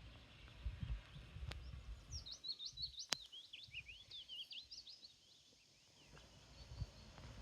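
A small songbird singing one fast, twittering phrase of high chirps lasting about two and a half seconds, starting about two seconds in. Low rumbling noise before and after it, and a sharp click about three seconds in.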